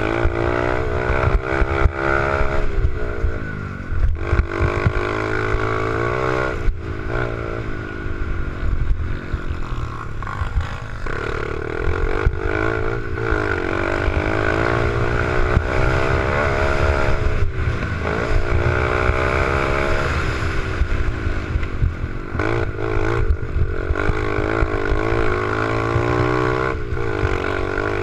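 Small 88cc mini bike engine running under riding load, its pitch rising and falling again and again as the throttle is opened and closed.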